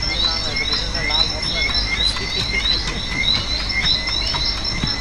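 A chorus of frogs and insects: a steady high insect drone with short calls repeating about three times a second.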